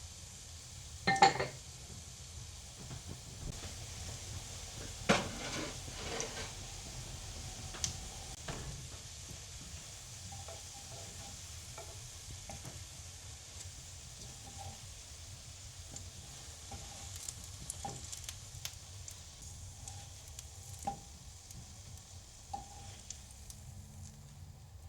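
Food sizzling in a frying pan, a steady hiss, with scattered clinks and knocks of utensils and cookware; two sharp knocks, about a second in and about five seconds in, are the loudest.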